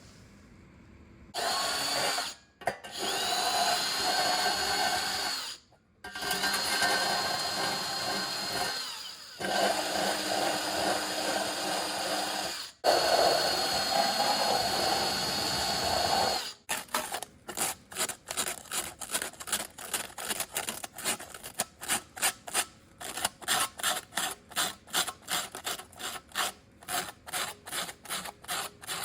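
Power drill running in five long bursts with a steady high whine. It then switches to many short, rapid bursts, about two a second.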